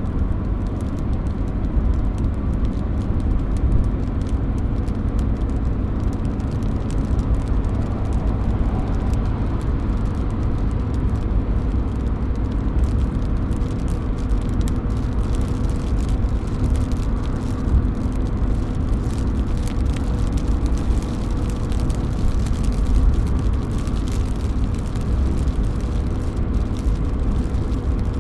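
Rain dripping from a roof edge, with many small drop ticks over a steady low rumble. A faint steady hum joins about halfway through.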